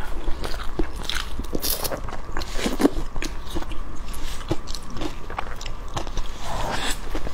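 Close-miked biting and chewing of sauced pig skin: a run of short mouth clicks and smacks.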